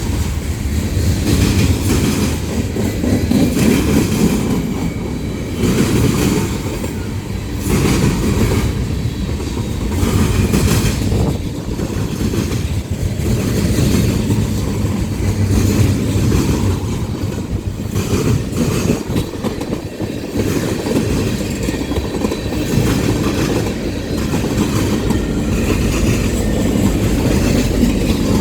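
CSX freight train rolling past at steady speed. Its cars' wheels rumble along the rails, with repeated clickety-clack as the wheels cross rail joints.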